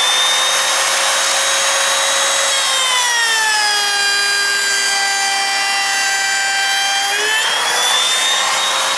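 Handheld electric router running at full speed with a high whine. About three seconds in the pitch drops and holds low for several seconds as the bit bogs down in the cut, then it rises back to free-running speed near the end.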